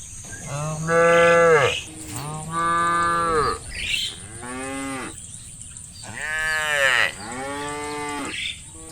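Cattle mooing: about five long calls in a row, some deep and some higher-pitched, each call rising and falling in pitch.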